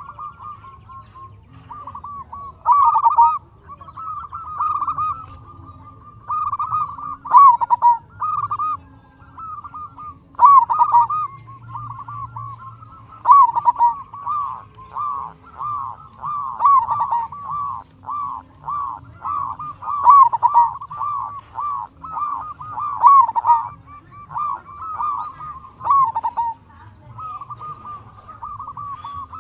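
Zebra dove (perkutut) cooing: run after run of quick, bubbling coo notes with short pauses between phrases.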